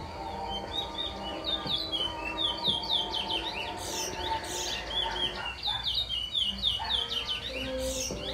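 Pet bird chirping in rapid runs of short, quick notes, with louder, higher calls about four seconds in and again near the end, over steady background tones.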